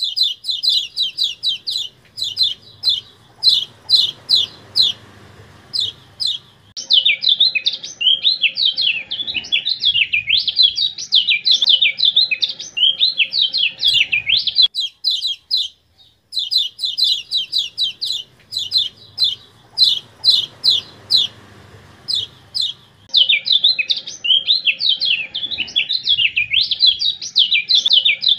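Kecial kuning (yellow white-eye) song from a training recording: runs of quick, sharp downward chips, then a dense, fast twittering warble. It breaks off about halfway and the same sequence starts over.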